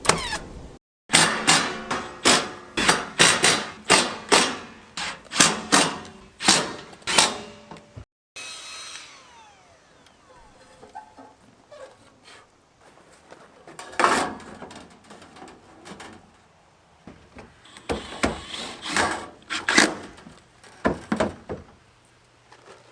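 Carpentry work on wood: a quick run of sharp knocks on timber for several seconds, then a pause and a few more scattered knocks, with another cluster near the end.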